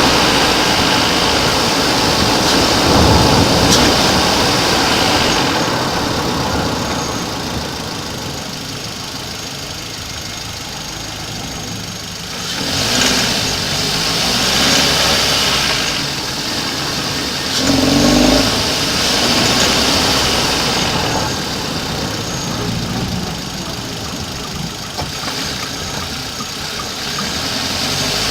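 Hyundai i30 engine running, with a strange extraneous noise in the engine that the owner is trying to track down. Its level swells and eases a few times, with brief louder spots about 3, 13 and 18 seconds in.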